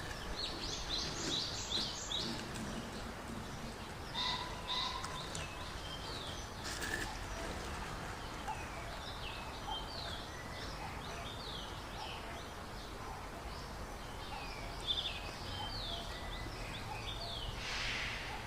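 Small birds chirping in repeated clusters of quick, high, falling notes over a faint steady background hiss.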